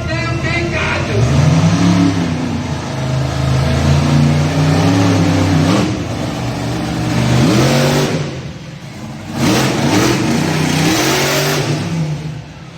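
Monster truck engine revving hard, its pitch repeatedly climbing and falling as the throttle is worked, with two brief lulls where it drops away before surging again.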